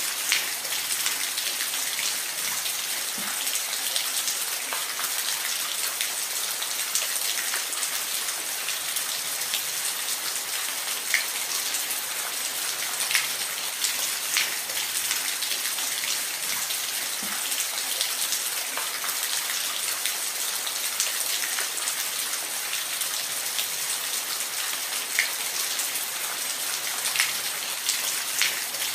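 Steady rain falling, an even hiss with scattered sharp drips and taps of drops on a surface.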